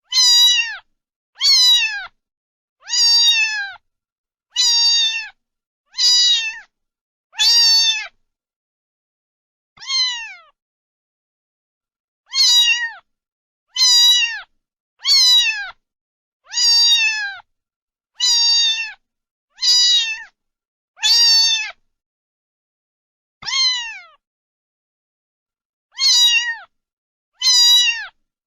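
A cat meowing over and over, about seventeen short high meows that each fall in pitch, roughly one every second or so, with two longer pauses.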